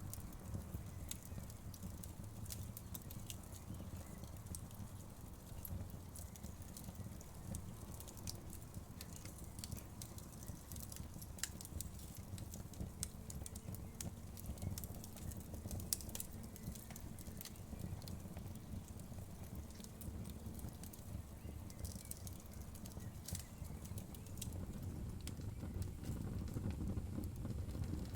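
Wood fire burning, with a steady low rumble of flames and frequent small crackles and pops from the wood.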